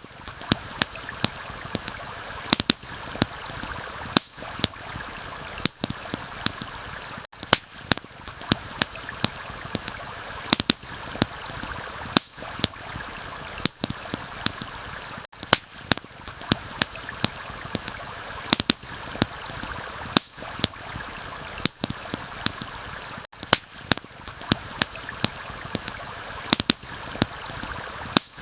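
Steady rush of a stream, overlaid by frequent sharp crackles and pops from a campfire, several in quick succession at times.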